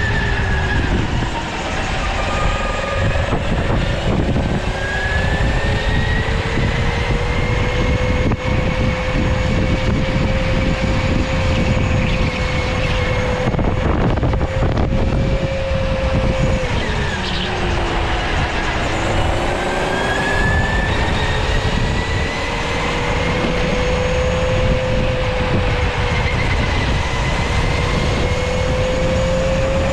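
Electric go-kart's motor whining as it drives, the pitch climbing as the kart speeds up and dipping twice when it slows, most clearly a little past halfway before climbing again. Underneath runs a steady low rumble.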